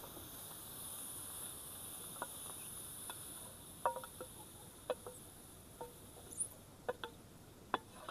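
Insects chirring steadily in a high, even drone that eases off about two-thirds of the way through. A scatter of sharp, irregular taps and clicks comes through in the second half.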